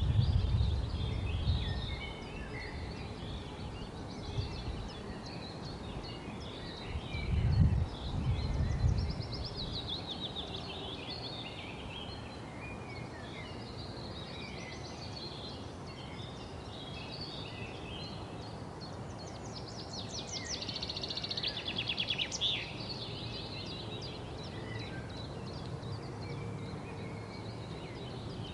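Several songbirds chirping and singing together, with a fast run of rapid repeated notes about twenty seconds in. Low rumbles can be heard near the start and again about eight seconds in.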